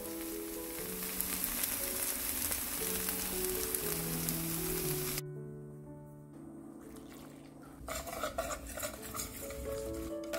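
Minari pancake batter sizzling steadily as it fries in oil in a pan; the sizzle stops about five seconds in. Near the end, scraping and clinking in a stainless-steel mixing bowl of flour.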